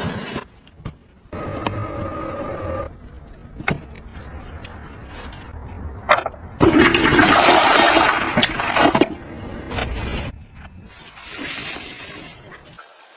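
Rushing water, loudest for about two and a half seconds in the middle, between shorter bursts of household gadget noise.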